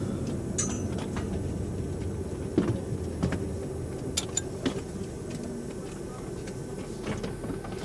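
Class 158 diesel multiple unit heard from inside the door vestibule: a steady low rumble from the train, with a few short sharp knocks from the door area and bodywork.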